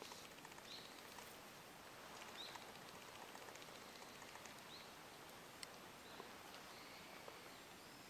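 Near-silent forest with a small bird's short, high call repeated four times, about every two seconds, over a faint hiss. A single faint click comes about two thirds of the way in.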